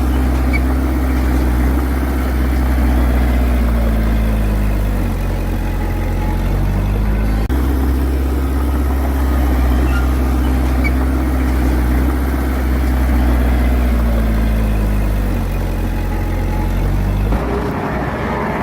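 Large diesel engine of heavy earthmoving machinery running steadily, its pitch sagging about four seconds in and again near the end. The sound changes abruptly near the end.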